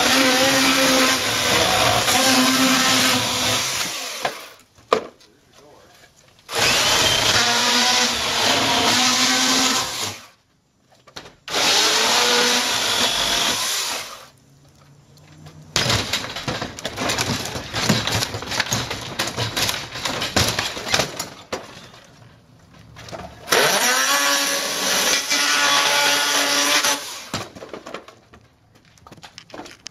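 Chainsaw revved in about five bursts of a few seconds each, dropping back between them, as it cuts into a garage door.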